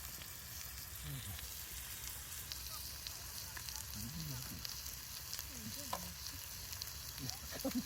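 Steak sizzling on a grill over a campfire: a steady hiss with scattered sharp crackles and pops.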